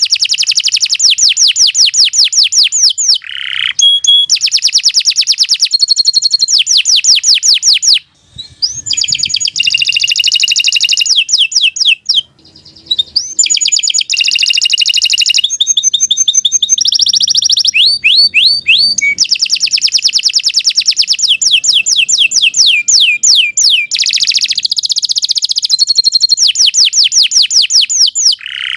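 Domestic canary singing a long, continuous song of fast high trills and rolling note series, with brief pauses about eight and twelve seconds in.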